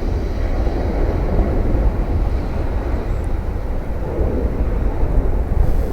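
Departing jet airliner's engines producing a loud, steady low rumble after takeoff.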